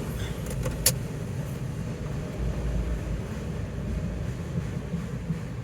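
Low, steady rumble heard from inside a car's cabin, with one sharp click about a second in.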